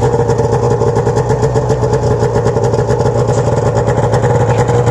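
1997 Arctic Cat EXT 580 EFI snowmobile's two-stroke twin engine idling steadily, with an even, unchanging pulse.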